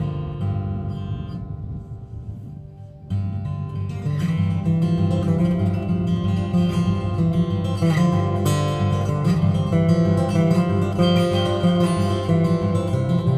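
Acoustic guitar playing a song's instrumental introduction: notes ring and fade, then strumming comes in about three seconds in and grows fuller a second later.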